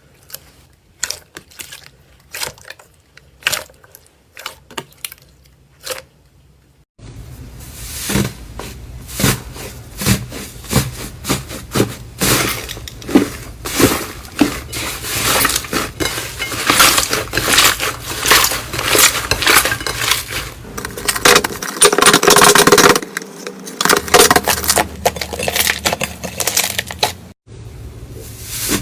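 Slime being handled, squeezed and pressed by hand, giving sharp sticky clicks and pops. About seven seconds in there is a cut to a louder clip, with dense crackling and squelching.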